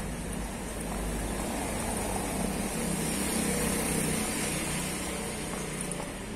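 A car driving past on the street, its engine and tyre noise swelling to a peak about halfway through and fading away again.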